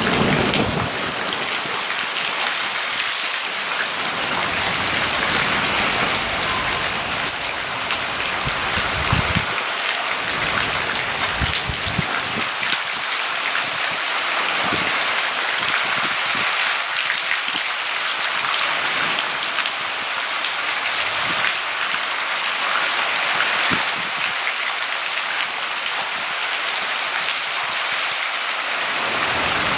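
Heavy rain falling steadily during a thunderstorm, a dense even hiss, with a few short low knocks scattered through it.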